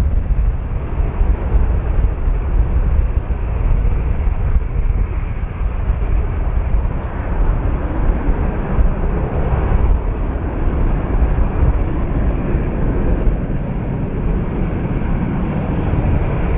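Boeing 737 jet airliner taking off, a steady roar of jet engine noise, mixed with gusty wind buffeting the microphone.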